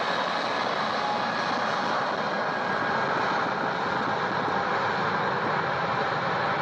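Jet airliner engines running at takeoff power, a steady roar with a faint whine in the first couple of seconds.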